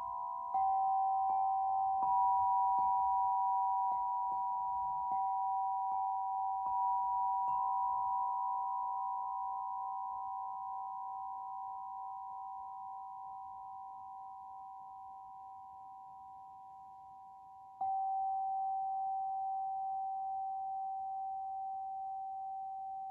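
Tuned sound-healing instruments struck repeatedly, ringing two steady pure tones, one a little higher than the other. The strikes come over the first several seconds, the tones then slowly fade, and a fresh strike about three-quarters of the way through renews the lower tone.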